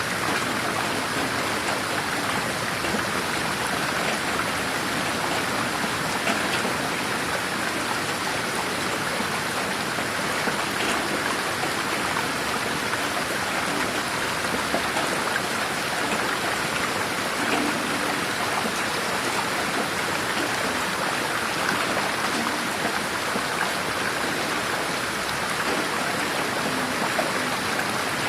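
Steady rain falling in a garden, a dense even patter of drops with faint individual drips scattered through it.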